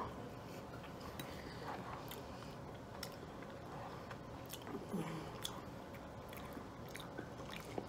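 Close-miked eating sounds: faint chewing and mouth smacking with scattered small clicks over a low steady room hum, and a short low sound falling in pitch about five seconds in.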